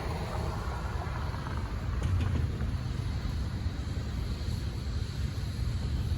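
Freight cars of a manifest train rolling past, a steady low rumble.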